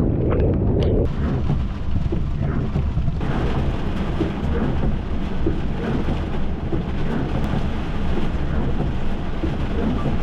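Severe thunderstorm: heavy rain hissing over a continuous low rumble of thunder and wind. The rain hiss gets stronger about three seconds in.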